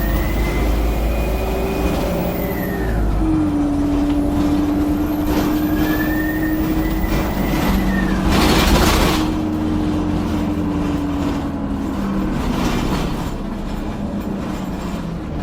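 City bus in motion, heard from on board: a high whistle rises and then falls twice as the bus speeds up and eases off, over a steady lower drone. A short hiss of air comes about eight and a half seconds in. The video's title calls this a loud turbo whistle.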